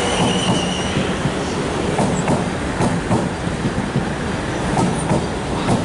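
South Western Railway class 444 Desiro electric multiple unit running past along the platform, its wheels and bogies rumbling steadily. A high whine fades out within the first second, and the wheels click over rail joints a few times.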